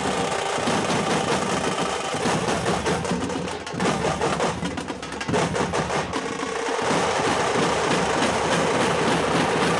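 Tamate frame drums beaten by a group in a fast, dense rhythm, the beat thinning briefly about three to six seconds in before picking up again.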